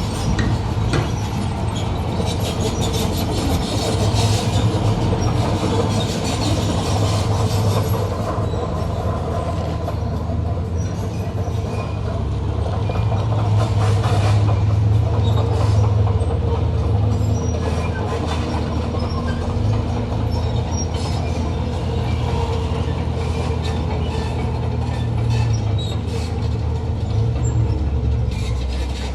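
Heavy diesel earthmoving machinery running steadily under load, with metallic clanking and squeaking over the engine drone.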